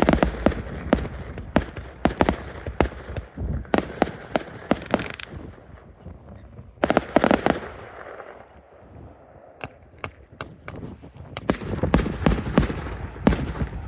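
Fireworks display: shells bursting in a rapid, irregular string of sharp bangs and crackles. There is a dense salvo about seven seconds in, then a short lull, and another heavy run of bangs near the end.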